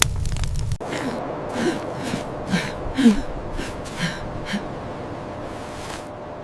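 Crackling that cuts off just under a second in, then quick breathy snuffs and gasps, about two a second, some with a short squeaky pitch in them.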